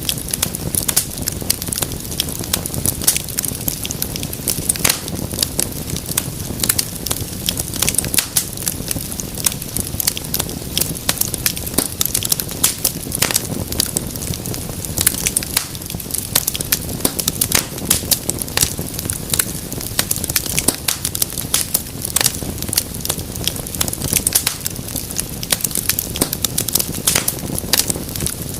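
Wood fire burning in a fireplace, crackling continuously with frequent sharp pops and snaps over a low rumble of the flames.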